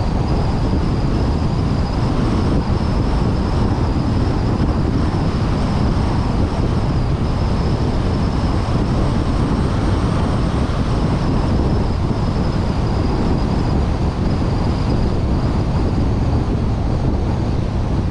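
Steady wind rush over a vehicle-mounted action camera's microphone, mixed with the running noise of the moving vehicle. A faint high whine runs through it.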